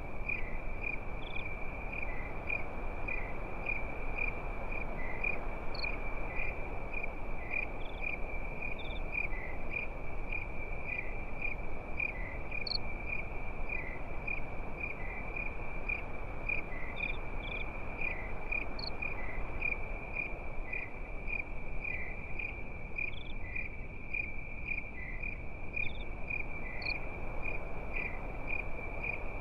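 Crickets chirping in a steady high, pulsing trill, with a few scattered higher chirps over a low, even hiss.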